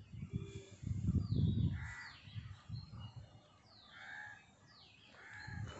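Birds calling: several short harsh caw-like calls and a few high whistled notes sliding downward, over a low rumble in the first two seconds.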